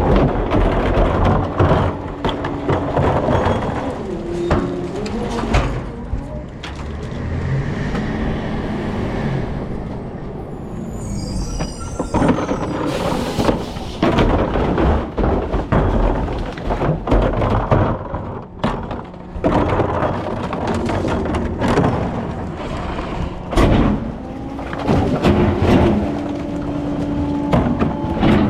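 Rear-loader recycling truck at work: engine and hydraulics running with repeated knocks, thuds and clatter of bins and recyclables, and a burst of higher rattling clatter about halfway through.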